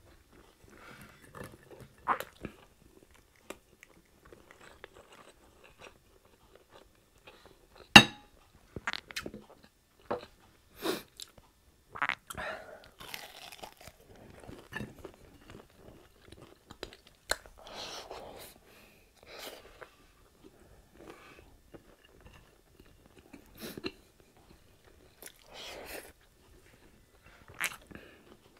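Close-miked chewing and crunching of crispy fried pork chop, with scattered bites and a sharp click about eight seconds in.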